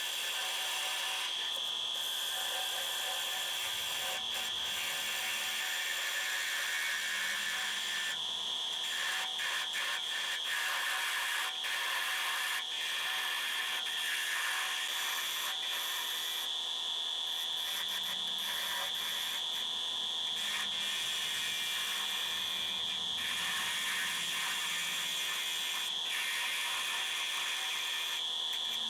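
Wood lathe running with a steady high-pitched whine while a turning tool cuts a wooden blank: a hissing scrape broken by short irregular ticks.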